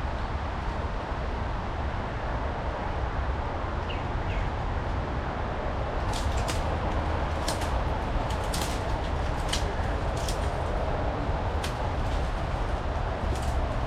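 Footsteps pushing through wet woodland brush over a steady rushing noise, with sharp twig snaps and crackles coming thick and fast from about six seconds in.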